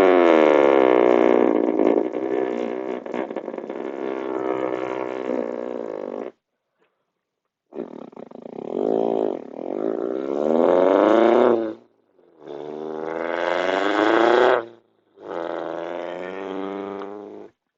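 A person's voice imitating a car engine for a Subaru Impreza 22B STI: it starts up and revs in four long droning runs, each rising in pitch like a car pulling through a gear, with short breaths between them.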